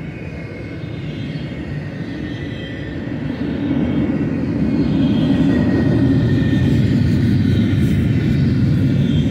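Steel wheels of a BNSF double-stack intermodal train's container well cars rolling past on the rails in a steady low rumble, growing louder about three and a half seconds in, with a faint high whine above it.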